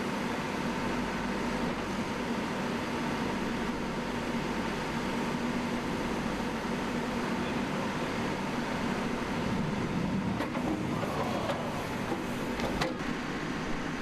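Backhoe's diesel engine running steadily, with a couple of sharp knocks near the end.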